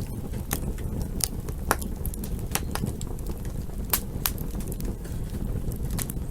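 Campfire burning, with a steady low rumble and sharp, irregular crackles and pops from the burning wood, one or two a second.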